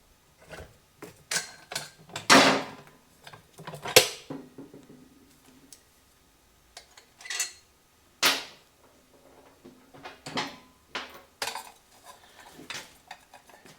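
Metal tools and parts clanking and knocking during work on a motorcycle engine's removal, with irregular clatters and louder clunks about two, four and eight seconds in.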